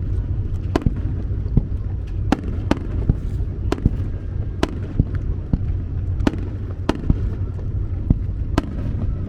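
Aerial fireworks bursting over the sea: about a dozen sharp cracks at irregular intervals over a continuous low rumble.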